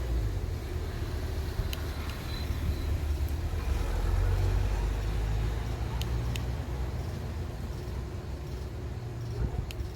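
Low, steady rumble of a car engine running, with a few sharp clicks.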